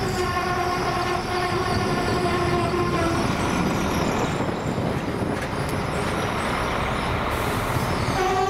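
SA132-class diesel multiple unit running along the platform as it pulls into the station. A steady whine in the first three seconds sinks slightly in pitch, then gives way to rolling noise from the wheels and engine. The whine returns, higher, at the very end.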